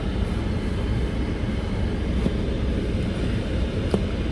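Steady low rumble of a 2019 Toyota RAV4 heard from inside the cabin, the car's engine and road noise as it drives slowly on a snowy, icy road. A faint click comes about four seconds in.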